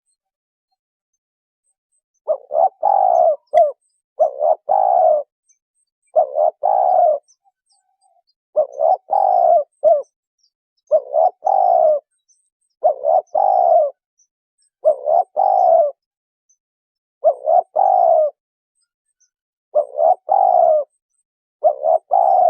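Spotted dove cooing: its phrase of a few quick notes ending in a longer coo, repeated about every two seconds, about ten times, after a short silence at the start.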